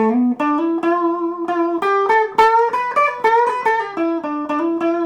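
Electric guitar played through a valve amp: a quick single-note melodic line, with notes changing several times a second over a held lower note that keeps sounding beneath it.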